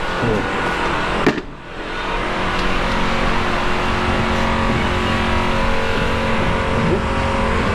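A vehicle engine running steadily with a constant hum, broken by a sharp click and a brief dip about a second and a half in.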